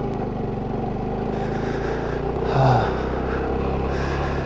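Motorcycle engine running at a steady speed while riding, with a brief louder sound about two and a half seconds in.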